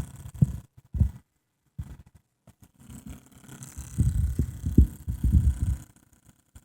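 Laptop cooling fan (Aavid PAAD07010SH N263) giving a low, irregular rattle that comes and goes in short spells, with a longer spell about halfway through. The rattle is the sign of a faulty fan.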